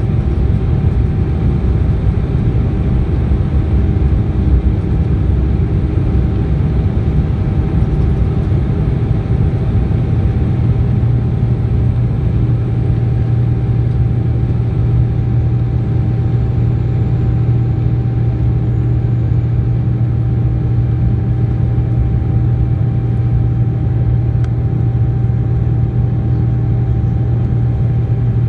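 Steady cabin noise inside a Boeing 787-9 airliner: a dense rumble of engines and airflow with a constant hum. A low drone strengthens about ten seconds in.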